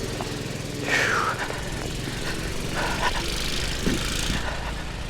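Gasoline snow blower engine running steadily.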